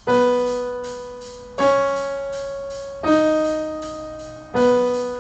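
Piano playing a four-note ear-training pattern: four single sustained notes about a second and a half apart, each struck and slowly fading. The notes step up twice, then return to the first pitch.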